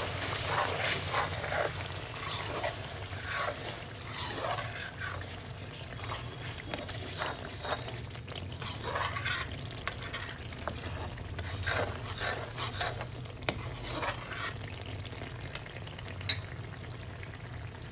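Spice masala frying in hot oil in a metal pan, an even sizzle broken by irregular scrapes of a steel ladle stirring against the pan, over a steady low hum. The stirring thins out near the end.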